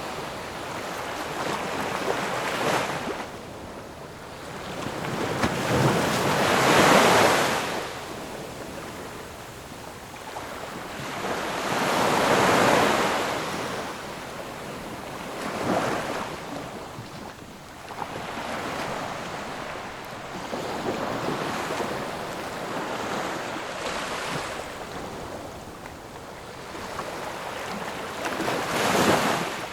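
Ocean waves breaking in slow swells of surf, each rising and falling away. The biggest crests come about seven and twelve seconds in, with another near the end.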